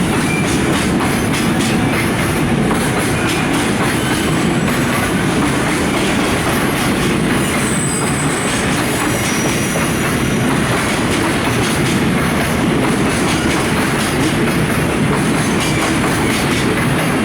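Electric-hauled freight train of container flatcars rolling past, a steady rumble with wheels clattering over the rail joints. Faint brief high-pitched wheel squeals come about halfway through.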